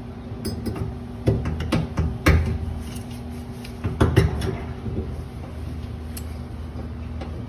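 Knocks and clanks of copper pipe and fittings being handled and pushed into a union, about half a dozen sharp hits in the first half, over a steady low hum.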